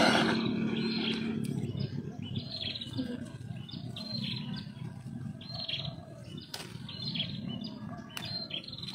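A small bird calling over and over, a short high chirping phrase about once a second. A motor's steady hum fades out in the first second and a half, and two sharp clicks come in the second half.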